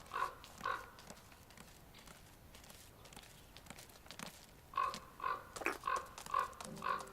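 Short animal calls repeated about twice a second: two near the start, then a run of about five in the last two seconds.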